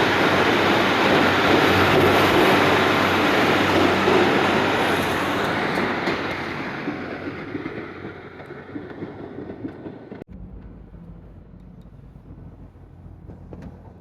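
A train running past close by, loud at first and then fading away over several seconds as it moves off, leaving a quieter low background.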